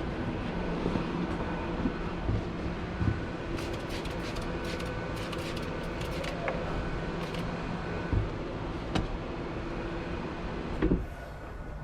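A steady low mechanical hum with a few held tones, under scattered knocks and a run of short, sharp high clicks in the middle.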